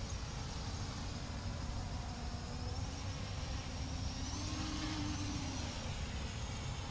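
CG035 quadcopter drone in flight: its motors and propellers whir steadily, the pitch swelling up and falling back about four to five seconds in as the throttle changes.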